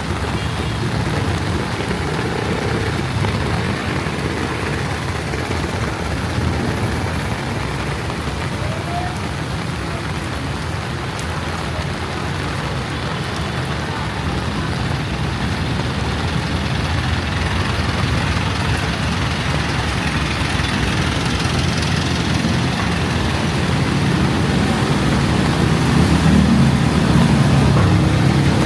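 Heavy rain hissing on a city street with motor traffic running; a vehicle's engine rumble builds and grows louder over the last few seconds.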